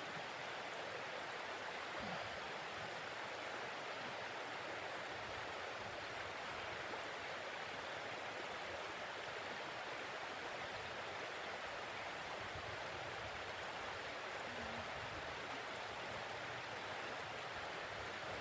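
Steady rushing of blizzard wind, an even hiss that holds without gusts or breaks.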